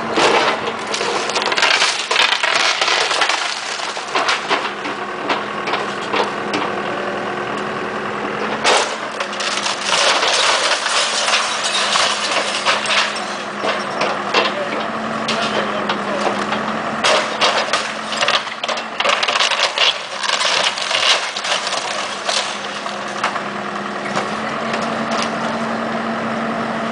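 A house being torn down: wood cracking and splintering and debris crashing down again and again, over a steady machine hum.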